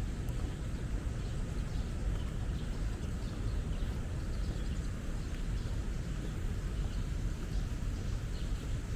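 Steady low rumble of city traffic with scattered short bird chirps over it.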